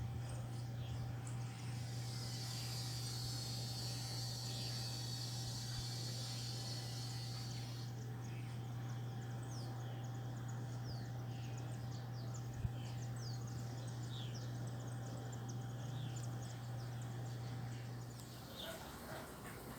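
Nature ambience: many short, high bird chirps and a high insect buzz over a steady low hum. The hum drops out near the end.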